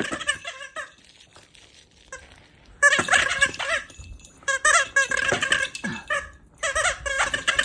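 A dog's squeaky duck toy being squeezed over and over, in quick runs of squeaks, with a pause of about two seconds near the start.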